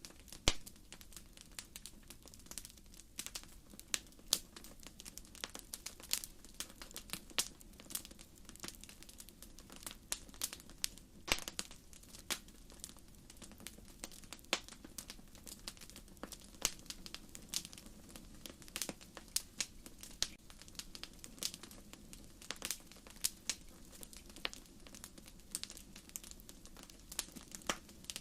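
Wood fire crackling, with irregular sharp pops from the burning firewood over a low steady sound of the flames.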